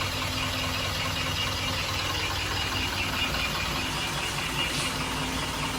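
Truck diesel engine running steadily, a low even hum with a light knocking rattle.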